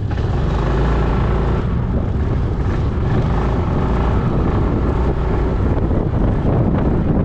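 Wind rushing and buffeting over the microphone in strong gusts, over the steady running of a Yamaha Majesty 400 scooter's single-cylinder engine while riding.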